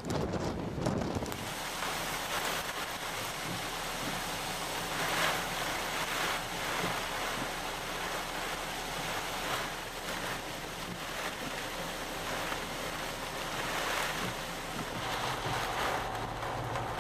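Rough storm surf: heavy waves breaking and washing ashore in repeated swells, with wind buffeting the microphone in the first second or so.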